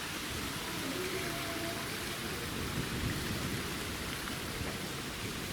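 A steady rush of splashing water, an even hiss with no breaks.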